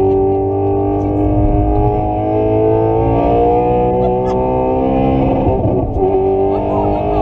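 Car engine accelerating hard, its pitch climbing steadily, with a short break about two-thirds of the way through as it shifts up a gear, then climbing again.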